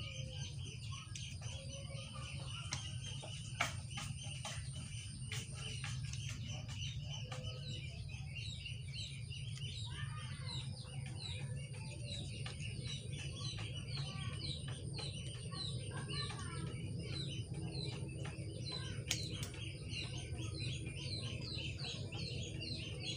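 Birds chirping with many short, quick, repeated calls that grow denser in the second half, over a steady low rumble. A few sharp clicks sound along the way.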